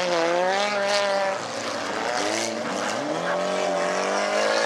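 Engines of several stock cars racing on a dirt track, revving up and down as they accelerate and lift off, several pitches overlapping.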